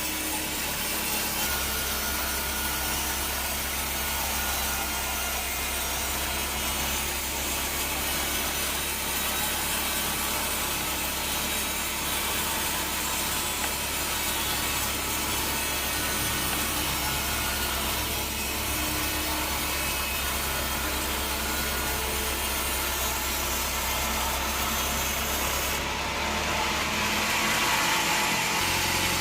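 Bandsaw sawmill blade cutting lengthwise through a teak log: a steady sawing hiss over the low hum of the mill's motor, growing a little louder near the end.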